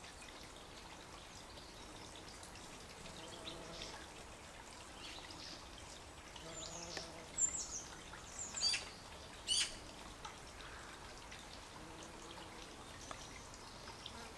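Garden birds singing outdoors: a cluster of short, high chirps and quick downward-sweeping notes about halfway through, over a faint steady background hiss.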